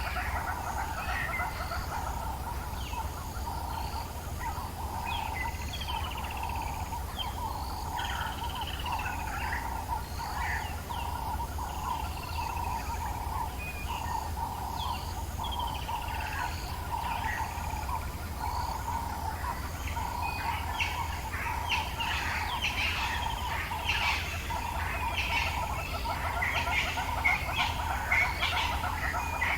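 Dawn chorus in the African bush: several birds calling, with repeated falling whistles over a constant pulsing trill. The calling grows busier over the last third.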